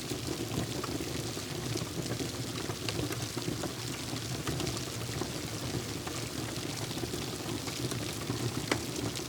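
Steady rain, a continuous even hiss, with scattered small crackles from a wood fire.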